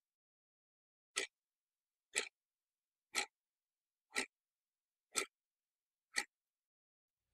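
A short, sharp click-like sound repeated evenly once a second, six times, with dead silence between the strokes.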